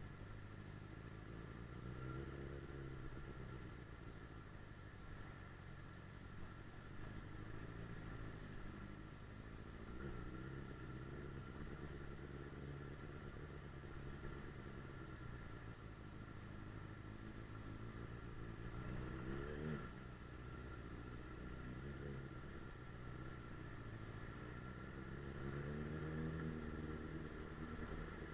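Suzuki GSF 600 Bandit S motorcycle's inline-four engine running under way, its pitch rising and falling as the rider accelerates and changes gear, with one sharp climb in revs about two-thirds of the way through.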